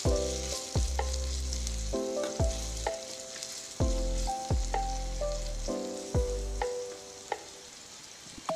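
Chopped onion sizzling in hot oil in a steel spoon, stirred with a small spoon that scrapes against the metal. Music plays along with it.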